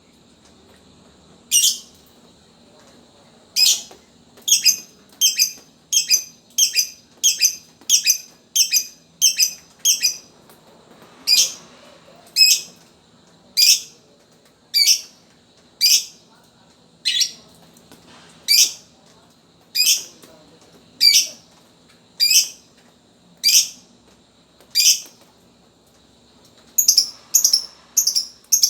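Lovebird repeating short, sharp, high-pitched call notes, in quick runs of about two a second with more widely spaced single calls between. This is the clipped 'ngetik' calling of a fighter lovebird.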